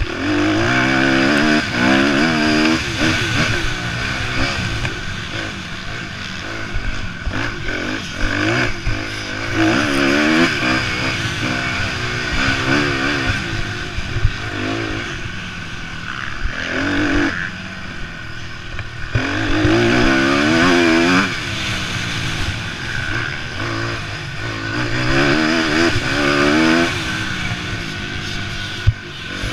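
Several motocross bikes racing, their engines revving up and down over and over as they go through the gears and pass.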